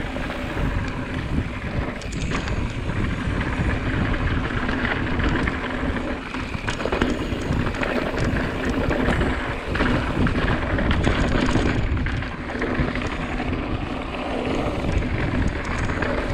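Wind buffeting the rider's camera microphone over the rumble and rattle of a mountain bike's knobby tyres rolling fast down a dirt trail, with scattered knocks from bumps.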